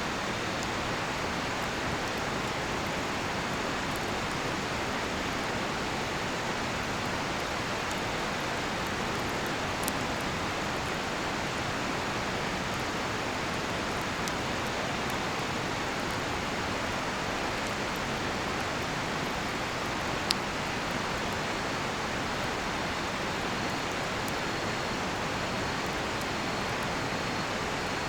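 A river rushing steadily, with a sharp pop from the burning cedar firewood twice. Near the end a cricket chirps faintly with a quick pulsing trill.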